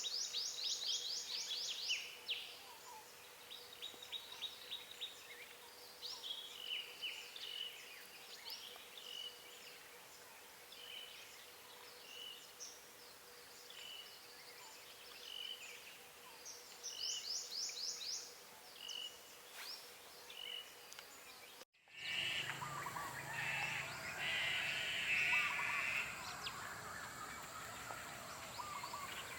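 Wild birds singing and calling: a fast series of quick falling whistled notes opens and comes again past halfway, over another bird repeating a short call about once a second. About three quarters through, the sound cuts to a different recording with a steady high tone and busier bird calls.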